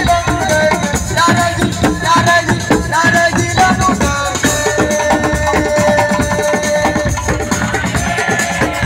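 Senegalese assiko band music: fast, dense drum and shaker percussion under a bending melody that holds one long note in the middle.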